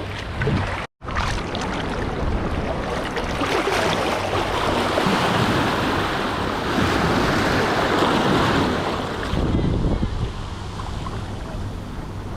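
Atlantic Ocean surf breaking and washing up the beach, swelling to its loudest in the middle and then easing off, with wind buffeting the microphone. The sound cuts out completely for a moment about a second in.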